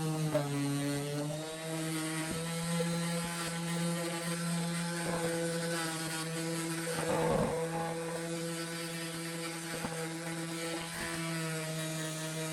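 A machine running with a steady hum. Its pitch dips briefly about half a second in, and a short rough scraping burst comes about seven seconds in.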